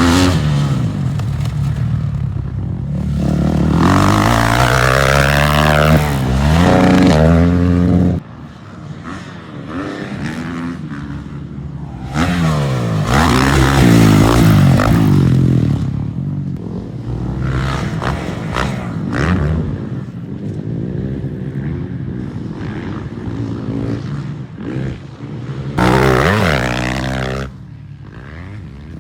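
Motocross dirt bike engines revving up and down as the bikes race and shift through the gears, pitch climbing and dropping repeatedly. The sound changes abruptly several times, as between separate clips.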